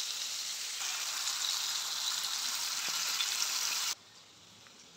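Jackfruit pieces sizzling steadily as they fry in hot mustard oil in a kadhai, being stirred with a spatula. The sizzle cuts off suddenly about four seconds in.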